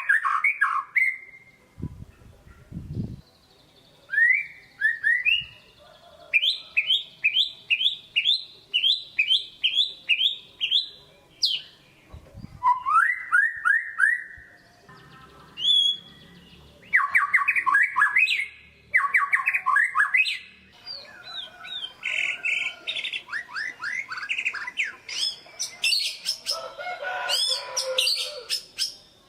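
White-rumped shama (murai batu) singing a long run of varied whistled phrases, many of them quick runs of repeated rising notes, in the full, energetic song called 'gacor'. A few brief low thumps sound about two to three seconds in and again near twelve seconds.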